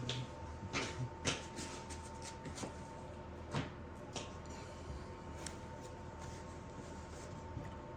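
Scattered light clicks and knocks, mostly in the first half, as of small parts or tools being handled, over a steady faint hum.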